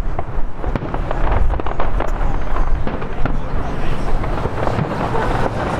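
Fireworks display: a quick succession of bangs and crackles over a constant low rumble.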